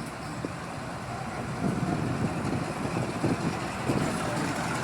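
Diesel engine of a heritage train running, a steady rumble that grows a little louder just under two seconds in.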